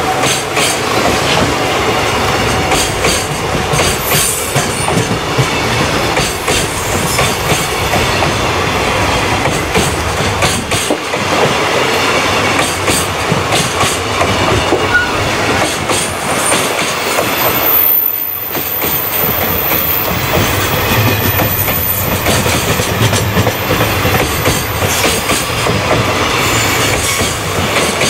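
Freight train wagons rolling past at speed, wheels clacking steadily over rail joints. A thin high wheel squeal runs through the second half.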